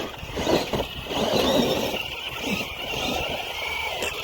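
Brushed electric motor of a Tamiya TT02 radio-controlled rally car, whining as it rises and falls in pitch while the car struggles to climb a hill.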